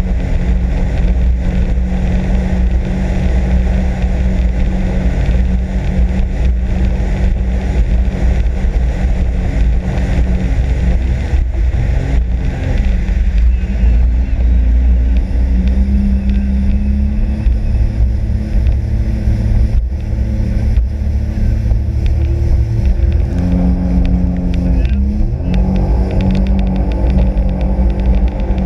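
Sea-Doo RXP-X 260 jet ski's supercharged three-cylinder engine running under way. It holds a steady note, and its pitch dips and rises a few times as the throttle changes.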